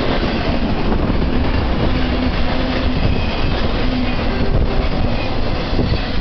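BNSF intermodal freight train's trailer-carrying flatcars rolling past, a steady loud rumble of steel wheels on the rails.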